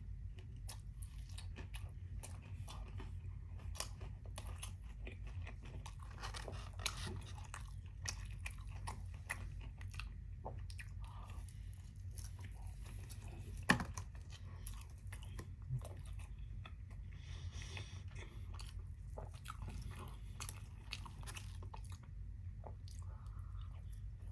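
Close-miked chewing and biting of a fried chicken dinner: crunching of the fried breading, wet mouth sounds and many small clicks. One sharp, louder click about fourteen seconds in.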